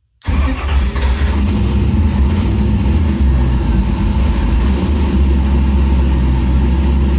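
Race car's eight-cylinder engine, freshly fitted with new spark plugs, comes in abruptly about a quarter second in and runs steadily and loudly with a deep rumble.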